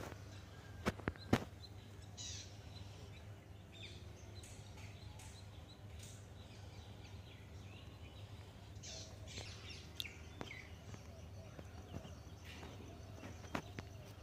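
Faint outdoor ambience with a steady low hum and scattered short bird chirps. Two sharp clicks come about a second in.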